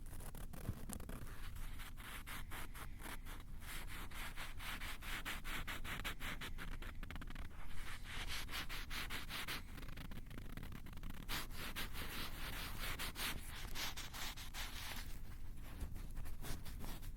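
Fingers scratching and rubbing directly on a Tascam recorder's microphones: quick, harsh scratching strokes, several a second, over a steady low handling rumble, growing louder for two stretches in the middle.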